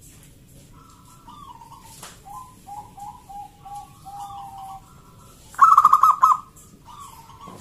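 Zebra doves cooing: soft, stepped cooing phrases dipping in pitch, then a loud run of rapid cooing notes about three quarters of the way in, followed by a softer phrase.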